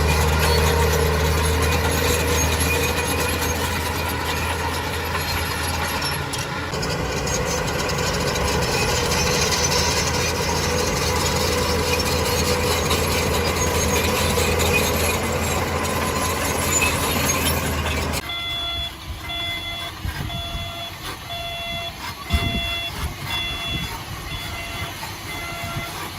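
Heavy earthmoving machine's diesel engine running loud and steady. About two-thirds of the way through, the engine noise suddenly drops away and a reversing alarm beeps at an even pace, a little over one beep a second.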